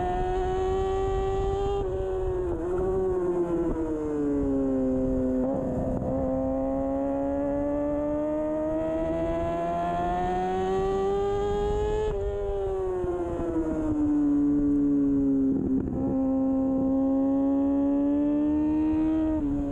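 2013 Kawasaki Ninja 636's inline-four engine running hard on track, its pitch climbing through long pulls and dropping sharply at gear changes about five times, over low wind rush.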